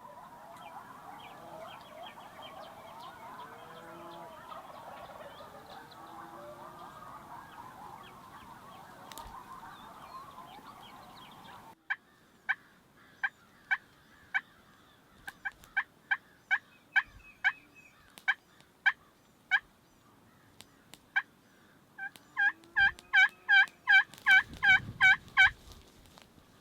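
Turkey calling: first a dense, steady chatter of many birds calling over one another, then, after an abrupt cut, a series of short sharp turkey yelps, scattered at first and ending in a fast, loud run of about a dozen yelps, some three a second.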